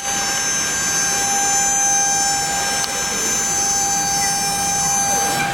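CNC wood router's water-cooled spindle running at speed while routing MDF: a steady high whine of several held tones over a continuous rushing cutting noise.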